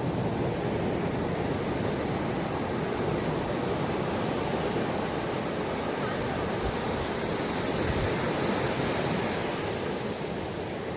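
Ocean surf washing onto the shore in a steady, unbroken rush. A wave swells a little louder about eight seconds in, then eases off near the end.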